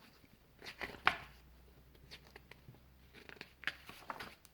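A few soft clicks and rustles, in two short clusters about a second in and near the end, over a faint low steady hum.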